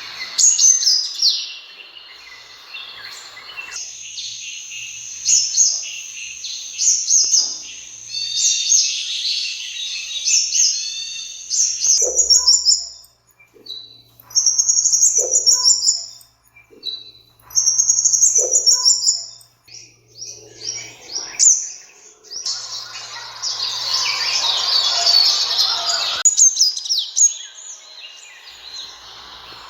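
Sunbird calling and singing: fast runs of high, thin chirping notes, then short bursts of trills every few seconds, then a dense run of chirping near the end.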